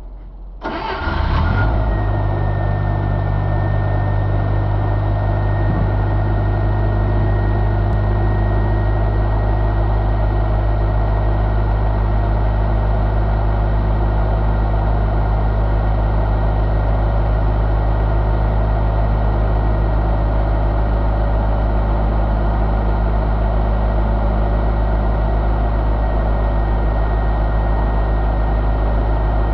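1985 Ford 1.6-litre four-cylinder engine starting about a second in, then idling steadily, with a faint steady whine over the idle.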